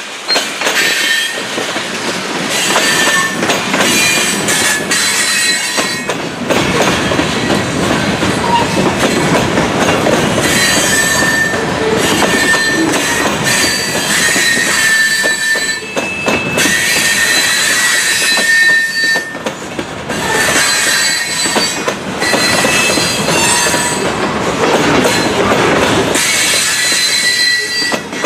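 Loaded grain hopper cars rolling past at a grade crossing: a steady rumble and clatter of wheels over the rail, with high wheel squeals that come and go.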